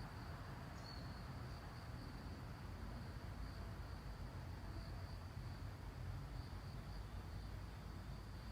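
Insect trilling steadily at one high pitch, with a faint low rumble underneath and a brief higher chirp about a second in.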